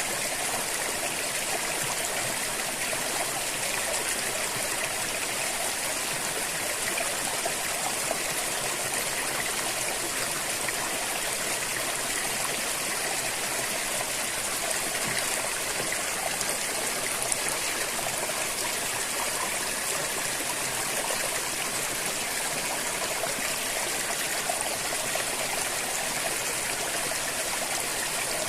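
River water flowing, a steady rushing and trickling that holds even throughout.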